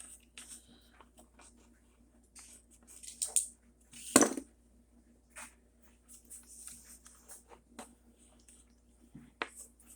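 Small hard objects being handled on a workbench: scattered clicks and taps with a few brief scrapes, and one louder knock about four seconds in.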